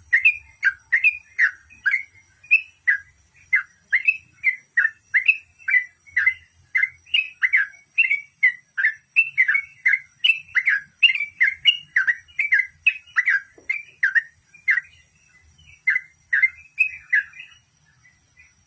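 Yellow-vented bulbul (trucukan) singing in rapid, unbroken 'ropel' style: short, downward-slurred whistled notes repeated about three times a second, stopping shortly before the end.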